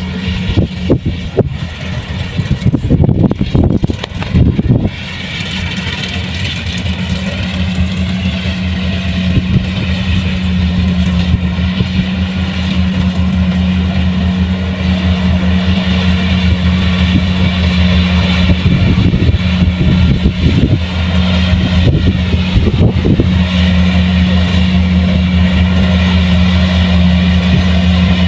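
Kubota combine harvester's diesel engine running steadily with a deep, even hum. The first five seconds carry rough, uneven noise over the engine before it settles into a smooth steady drone.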